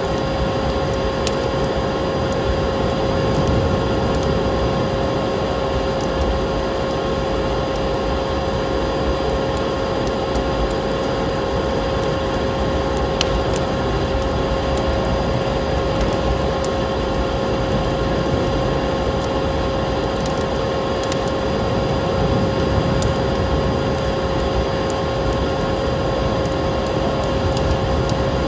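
Wood fire in a fireplace crackling, with scattered sharp pops over a dense, steady rushing noise and a constant hum.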